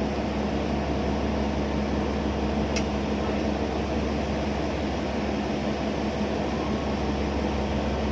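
Steady machinery drone of a ship under way: a constant low hum with a steady tone over an even noise. There is one short click about three seconds in.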